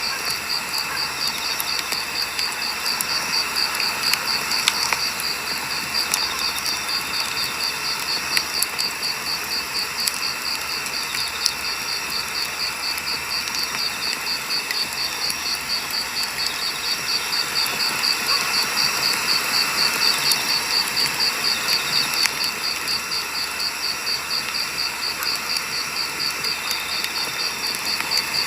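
Firewood burning in an open fire, a steady crackle with scattered sharp pops. An insect, likely a cricket, chirps in an even high-pitched pulse throughout.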